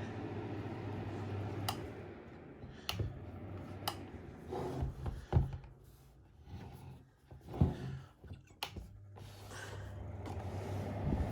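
Fan heater running with a steady hum, which dies away about two seconds in. Several clicks and knocks follow, and the hum starts again near the end.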